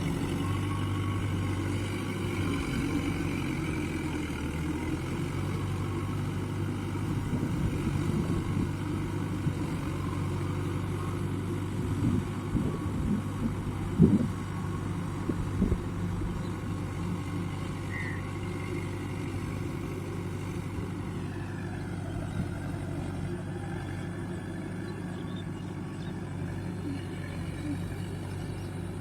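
Mahindra diesel tractor engine running steadily under a low, even rumble, with a few short knocks about halfway through.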